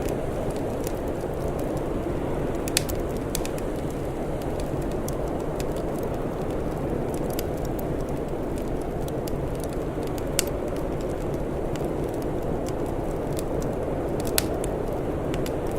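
Wood fire crackling, with scattered sharp pops, three louder ones spread through, over a steady low rushing background.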